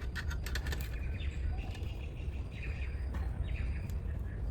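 Birds chirping now and then over a steady low rumble, with a quick run of sharp clicks or knocks in the first second.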